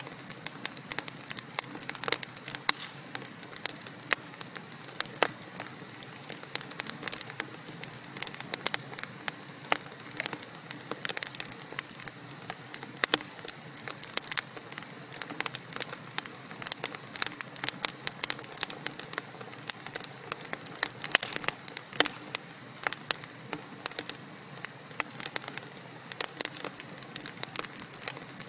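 Wood fire burning in a fireplace: logs crackling and popping with many sharp, irregular snaps over a steady soft hiss.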